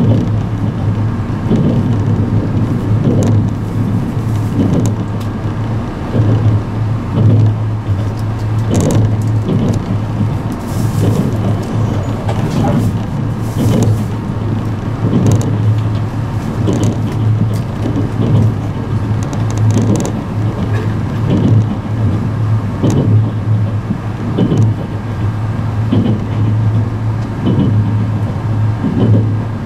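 Cabin running noise of an E653-series limited express electric train at speed: a steady low hum with repeated clicks of the wheels passing over rail joints.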